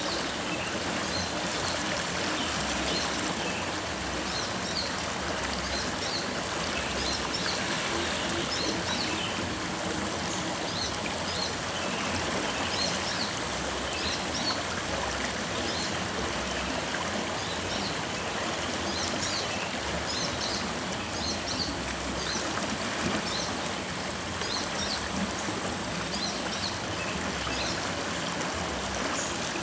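River water flowing steadily, with short high chirps scattered throughout that sound like small birds.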